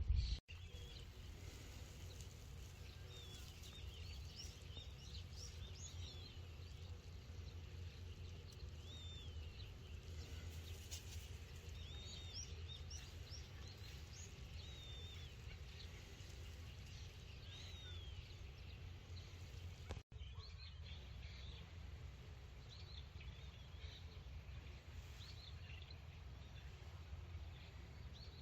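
Small birds chirping in short, repeated calls, over a steady low background rumble; the calls thin out after about twenty seconds.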